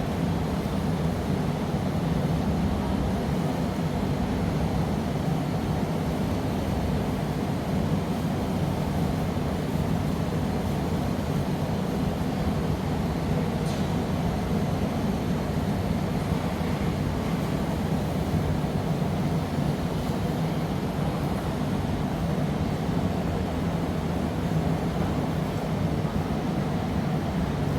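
Steady low roar of a glassblowing workshop's gas-fired furnace burners and blowers, unchanging throughout.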